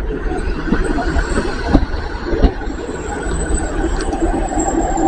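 Great Western Railway Class 150 two-car diesel multiple unit running past and pulling away, its wheels rolling on the rails over a steady low diesel rumble. A faint high-pitched squeal comes in about halfway through.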